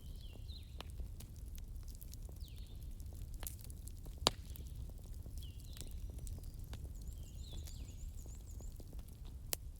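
Campfire crackling, with scattered sharp pops over a low steady rumble; the loudest pop comes about four seconds in. Birds chirp repeatedly in the background with short falling calls, and a quick run of small chirps comes near the end.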